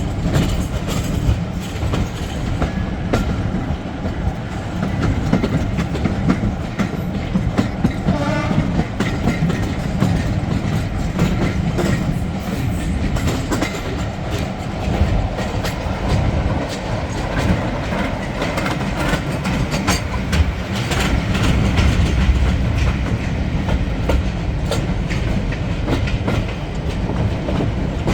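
Diesel-hauled heritage passenger train running, heard from on board a carriage: a steady low rumble from the locomotive and wheels, with a clickety-clack over the rail joints.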